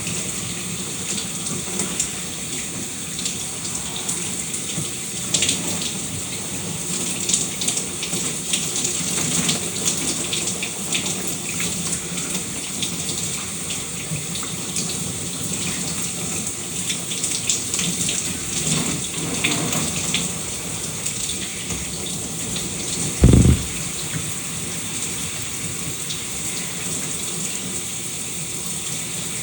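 Shower running steadily, water spraying and spattering in an even hiss. A single brief low thump stands out about three-quarters of the way through.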